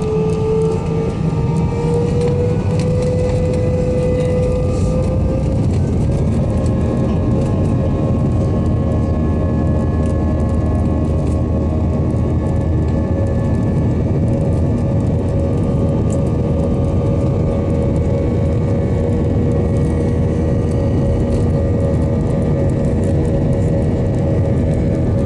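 Airbus A320-232's IAE V2500 turbofan engines spooling up for take-off: a whine rises over the first few seconds and then holds steady at take-off thrust over a loud, constant rumble.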